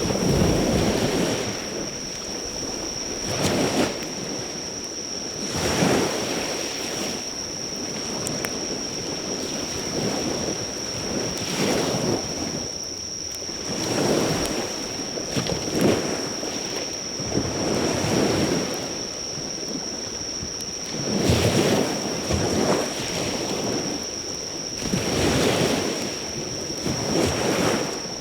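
Sea waves breaking on the shore, swelling and fading every couple of seconds, over the steady high chirring of insects. A few faint pops come from a driftwood fire.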